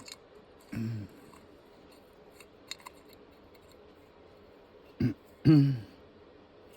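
A man's short wordless hums or grunts: one about a second in, two more near the end, each falling in pitch. A few faint small clicks come in between.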